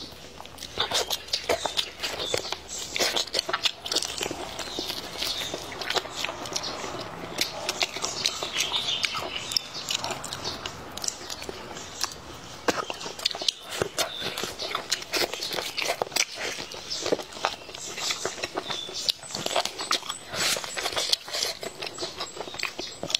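Close-miked chewing and biting: a person eating braised chicken, including a chicken head, with many small wet clicks and crunches from the mouth.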